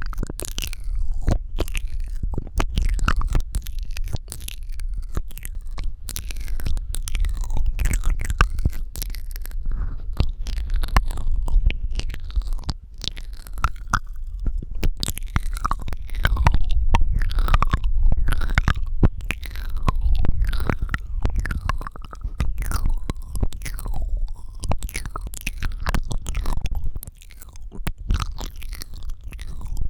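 Close-miked ASMR mouth sounds: a rapid, uneven run of wet clicks, smacks and pops from the lips and tongue, over a steady low rumble.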